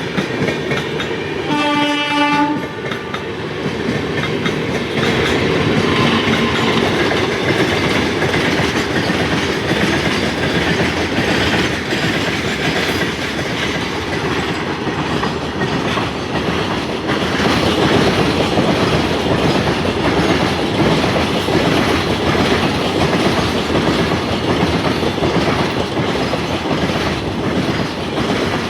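A train's horn sounds once, briefly, about two seconds in, then a passing train runs on with a steady loud rumble and rapid clickety-clack of wheels over the rail joints.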